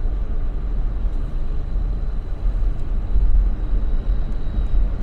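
Steady low rumble of a car driving on a road, with no distinct events.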